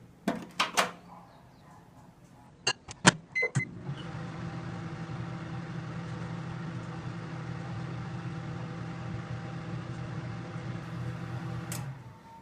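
Microwave oven being started: a door click, a few quick keypad beeps, then the oven running with a steady hum for about eight seconds, heating a pot of candle wax to melt it, and stopping just before the end.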